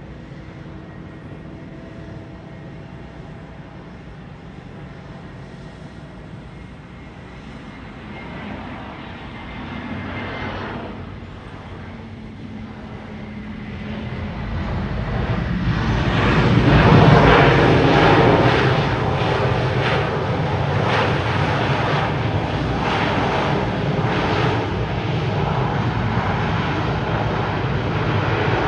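Jet engines of a Delta Airbus A321 airliner growing louder as it passes near, from a faint hum to a loud rumble with a rough crackle that peaks a little past halfway and stays loud.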